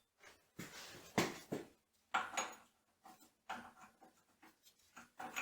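Removed metal machine parts (gears, bushing, shaft) being handled and set out: a string of irregular rubs, scrapes and light knocks, some with a brief faint metallic ring.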